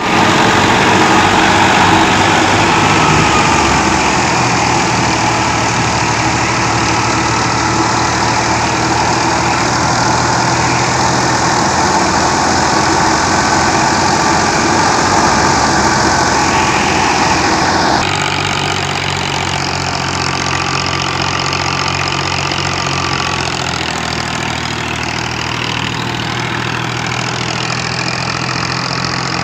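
New Holland 480 tractor's diesel engine running at a steady speed. About 18 seconds in, the sound cuts abruptly to a slightly quieter, steady run.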